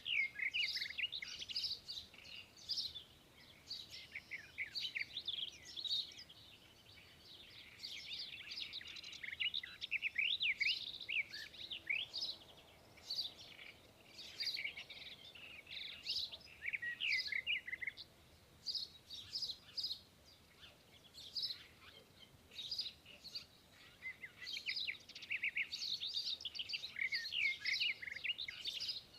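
Sparrows chirping: many quick, overlapping chirps in a steady, busy chatter with brief lulls.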